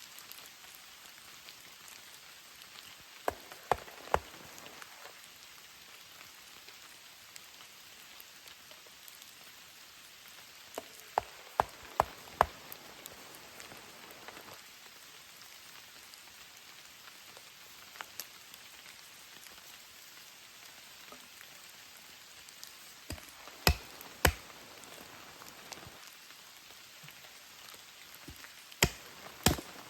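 Steady rain hissing. Every several seconds comes a small cluster of sharp, loud taps or clicks, three or four close together.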